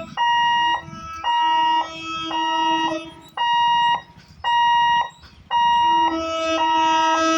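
Level crossing warning alarm beeping about once a second, a high electronic tone sounding as the railway gate is closed for an approaching train. Twice a lower steady tone sounds with it for a second or two.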